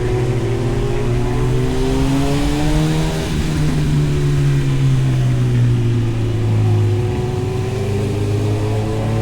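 2011 Honda CB1000R's inline-four engine breathing through an aftermarket Arrow exhaust, pulling under acceleration while riding. Its pitch climbs, breaks about three seconds in, climbs again, then falls back near the end.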